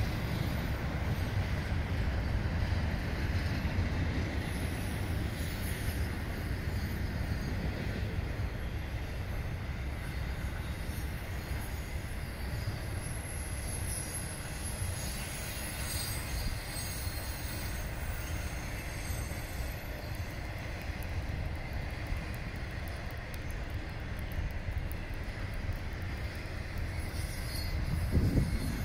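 Double-stack intermodal freight cars rolling past: a steady rumble of steel wheels on rail, with faint high-pitched wheel squeal around the middle and a louder low surge near the end.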